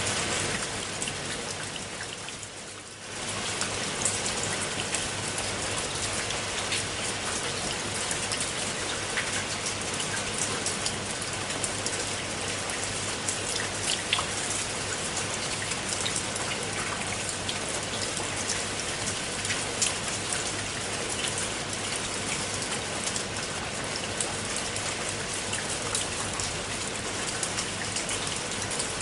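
Rain falling on a pool of water: a steady hiss of rainfall with dense patter and small splashes of individual drops. The sound dips and fades from about a second in, then comes back abruptly about three seconds in.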